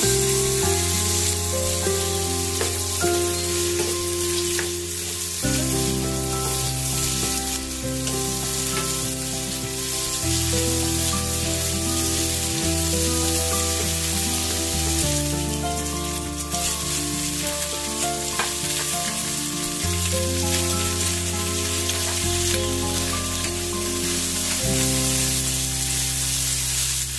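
Beef strips sizzling as they stir-fry in oil in a nonstick pan, stirred with a wooden spatula, over background music with sustained chords.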